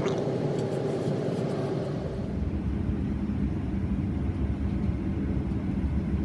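Steady cabin noise inside a Boeing 737-900ER airliner, from its CFM56 jet engines and air system. About two seconds in, a deeper low rumble sets in.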